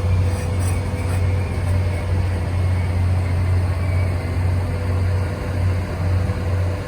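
Train running by with a steady low rumble.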